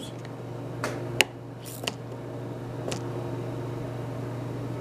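A steady low machine hum, with a few light clicks and a short hiss about two seconds in as soapy water is applied to solder joints on a refrigeration line to leak-check them.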